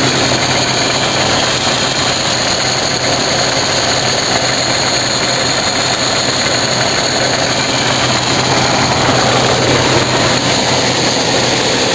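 Jeep engine idling steadily while it warms up, heard from beneath the vehicle.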